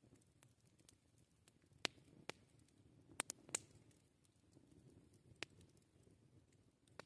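Wood fire crackling faintly: sharp, irregular pops of burning wood over a soft low hiss, with a quick cluster of three pops a little past the middle.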